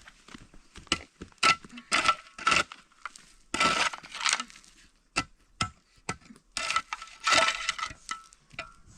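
Metal kitchenware clinking and scraping: a run of sharp clicks and short rasping scrapes, some with a brief metallic ring.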